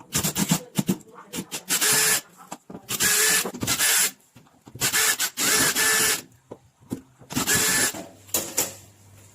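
Electric screwdriver running in short bursts of about half a second to a second, six or so with gaps between, as it works the screws holding a refrigerator's metal plate.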